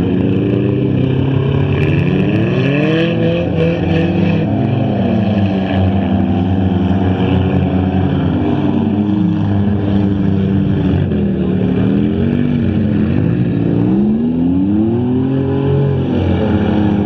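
Engines of several stock front-wheel-drive race cars revving up and down on a dirt track, their pitches rising and falling one over another as the drivers accelerate and lift.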